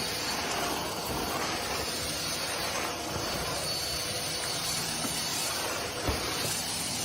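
Steady hissing noise with no clear pitch, and a faint knock about six seconds in.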